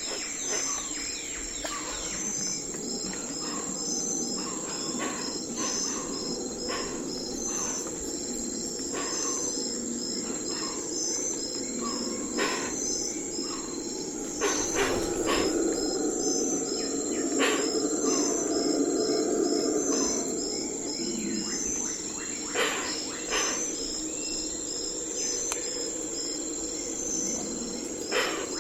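Night forest ambience: crickets and other insects keep up a steady high trill with regular chirps, while scattered bird and animal calls come over a low rushing background that swells in the middle.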